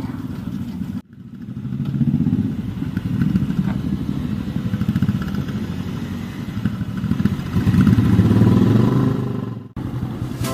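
Motorcycle engine running with a pulsing low beat, swelling louder as it is revved, loudest near the end; the sound breaks off sharply about a second in and again near the end.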